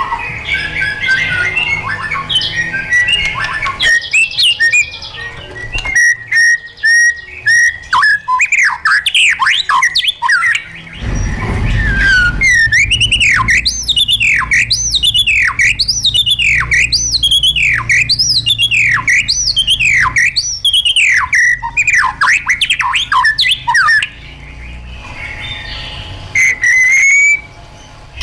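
White-rumped shama singing: a jumble of varied chirps and quick high notes, then a long series of repeated looping whistled notes, about one and a half a second, before the song breaks off near the end.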